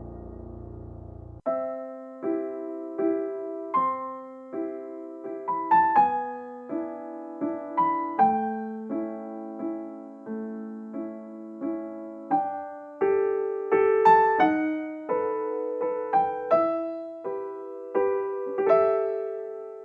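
Background music: a held, sustained chord cuts off about a second and a half in. A slow, gentle piano melody of separate struck notes, each fading away, then begins.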